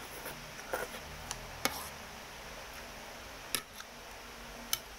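Close-miked eating: a mouthful of noodles being chewed, with a handful of short, sharp wet mouth clicks and smacks scattered irregularly through it.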